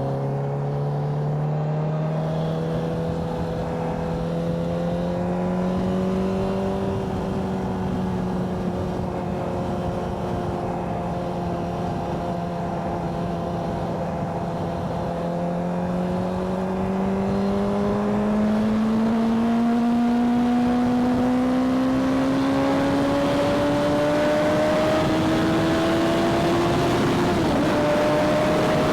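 Motorcycle engine heard while riding, its note climbing slowly and steadily as the bike gathers speed, with a brief dip a few seconds in and another near the end. Wind rush grows louder in the second half.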